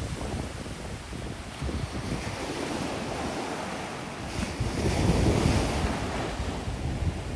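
Sea waves washing on a sandy beach, with strong wind buffeting the microphone in gusts; the surf swells louder about two-thirds of the way through.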